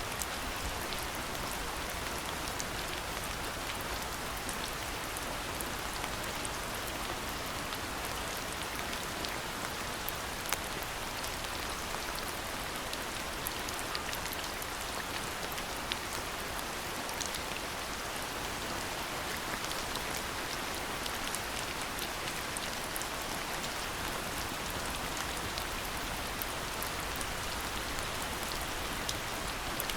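Steady rain falling, with many small sharp drop ticks scattered through the even hiss.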